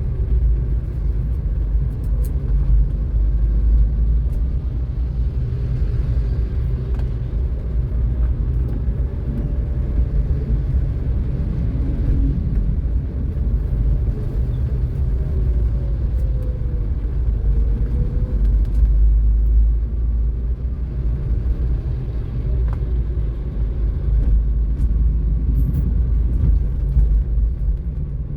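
Car driving: a steady low rumble of road and engine noise, with a faint engine note that drifts up and down.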